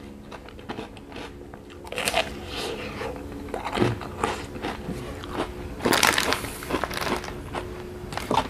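Close-up crunchy chewing of a chocolate-coated ice cream cone, a run of short crisp crunches.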